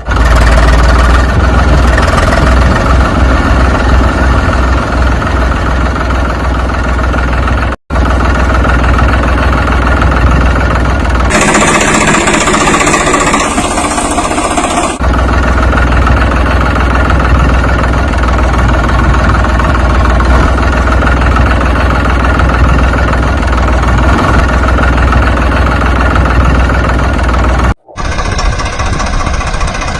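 Engine running steadily with a deep rumble. The sound cuts out abruptly twice, and there is a hissier, noisier stretch in the middle.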